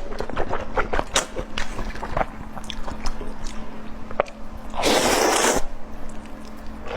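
Close-up eating sounds: chewing and biting with many small wet clicks and crunches, and a louder breathy rush about five seconds in.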